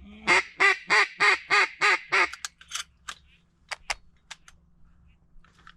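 A duck quacking: a quick run of about seven loud, evenly spaced quacks lasting about two seconds, followed by a few short sharp clicks.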